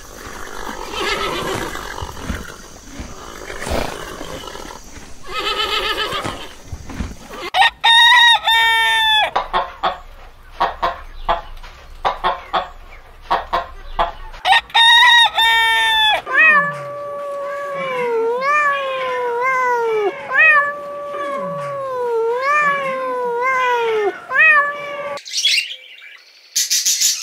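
A rooster and hens calling: loud pitched calls about a third of the way in and again about halfway, then a run of repeated clucking calls, each rising and falling. Before them there is a grazing-field noise as horses crop grass, and near the end a cockatoo's high screech.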